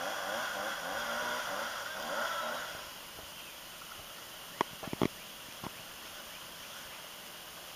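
Birds calling from the trees: a dense chatter of short, pitched calls that thins out about three seconds in. A few sharp clicks or taps come a little past the middle.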